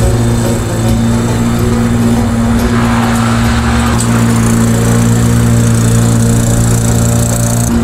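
Single-cylinder lawn mower engine running steadily at a constant speed.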